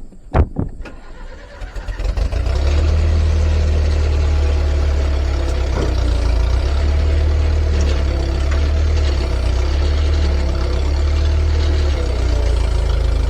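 A couple of sharp knocks, then a skid steer's engine catches about two seconds in and runs steadily at a low, rumbling idle.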